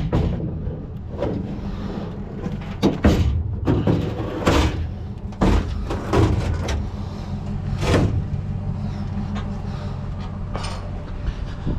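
A series of sharp knocks and clanks from scrap metal being handled and dropped, about eight over the stretch, over a steady low hum.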